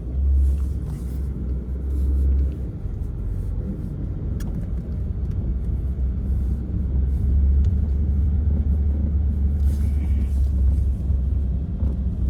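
A loud, deep, steady rumble that starts and stops abruptly.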